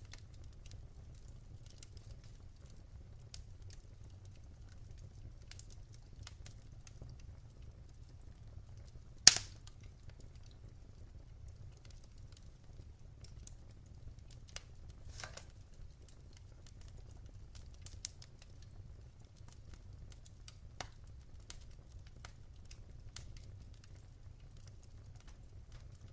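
Wood fire in a fireplace crackling: a low steady rumble of the flames with scattered small snaps, one sharp loud pop about nine seconds in.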